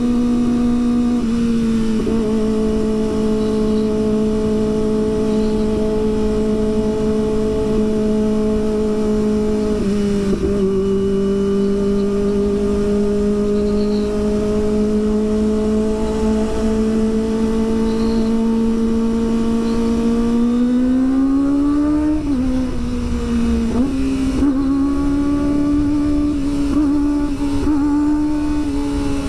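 Kawasaki ZX25R's 250 cc inline-four engine running at high revs under way, with wind rush. The engine pitch holds steady for long stretches, drops suddenly about a second in and again around ten seconds in, then climbs and falls back between about twenty and twenty-two seconds in.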